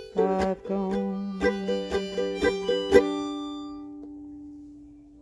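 Acoustic plucked string instrument playing the closing phrase of a folk tune: a few picked notes and chords, then a final chord left to ring and fade away.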